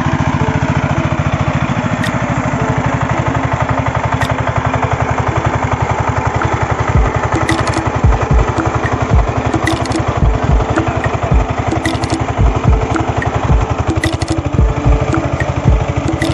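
Hand tractor (walk-behind power tiller) engine running steadily under way, with heavy low thumps and clattering clicks every half second or so from about seven seconds in.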